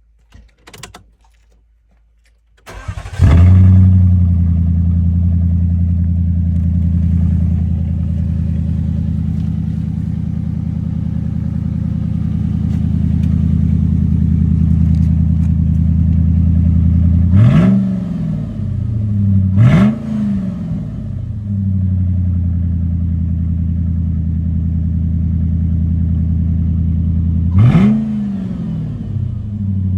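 Volvo XC90's 4.4-litre V8 with no exhaust fitted, started after a couple of faint clicks. It catches with a sharp flare and settles into a loud, steady idle. It is blipped three times, each a short rise and fall in revs, two close together about two-thirds of the way in and one near the end.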